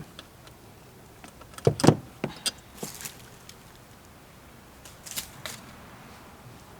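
Scattered clicks and knocks of parts and tools being handled, the loudest pair about two seconds in and a few lighter ones after.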